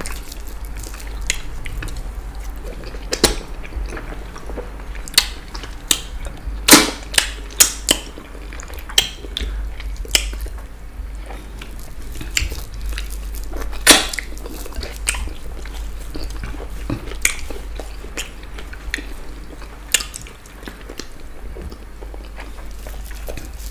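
Close-up eating sounds of fufu with ogbono and okra soup eaten by hand: chewing with scattered sharp wet smacks and clicks, a few louder than the rest, over a low steady hum.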